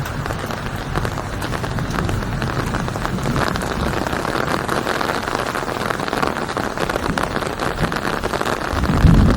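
Steady rain falling, a dense patter of drops on a surface. A low rumble swells near the end.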